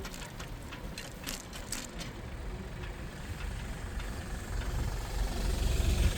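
City street traffic: a low motor-vehicle engine rumble that grows louder toward the end, with a run of sharp ticks and clicks in the first two seconds.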